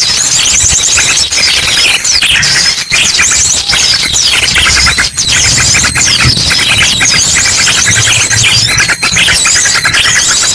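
A dense, noisy chorus of many small birds chirping and trilling over one another, mixed with rapid bursts of ashy drongo song: a bird-lure recording.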